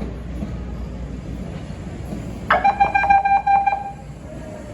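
A CTA 'L' train's warning signal: a pitched, rapidly pulsing tone, sounded once for a little over a second about two and a half seconds in, over a steady low rumble.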